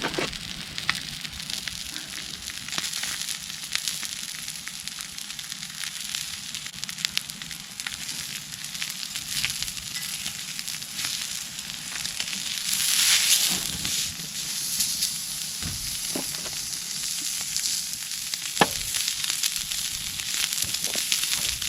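Meat sizzling steadily on an iron griddle, with scattered sharp pops of spattering fat and a louder swell of sizzle about thirteen seconds in.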